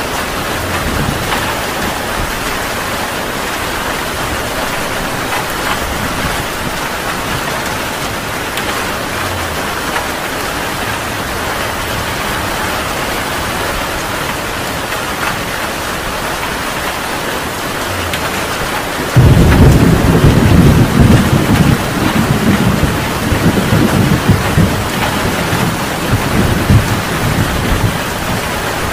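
Heavy rain falling steadily. About two-thirds of the way through, a sudden loud clap of thunder breaks into a low rolling rumble that swells and fades over several seconds.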